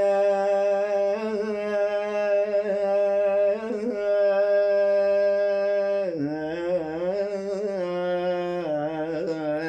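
A man's voice chanting a Gulf Arabic poem (shilah), holding one long note steady, then dropping lower about six seconds in and wavering through an ornamented run.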